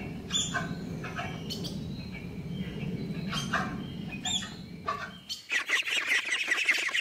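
High-pitched animal chirps and squeaks over a low hum, then from about five seconds in a dense, rapid run of high chirping.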